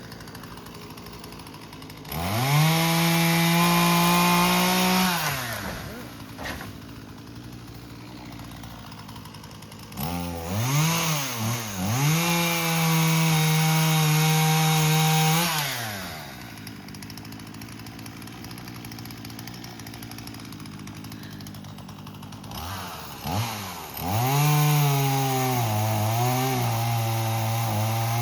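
Chainsaw revved to full throttle three times, about 2 s, 10 s and 24 s in, dropping back to a low idle between each. In the last run the pitch dips and wavers as the saw cuts into a large limb.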